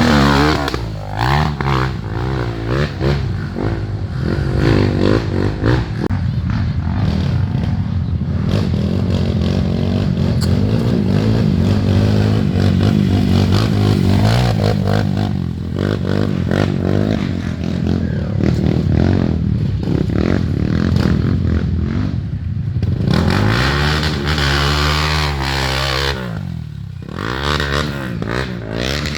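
Off-road trail motorcycle engines revving, their pitch rising and falling repeatedly as they are ridden on a dirt trail. A rattle and scraping sound runs along with the engines.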